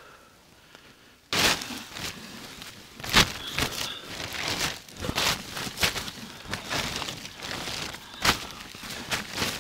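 Close handling noise: a run of sharp cracks and knocks mixed with crinkling rustles, starting about a second in.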